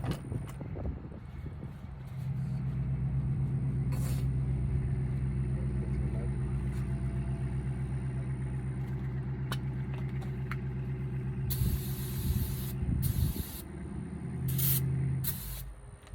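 A large engine or motor running steadily with a low hum, joined near the end by several short bursts of hissing air.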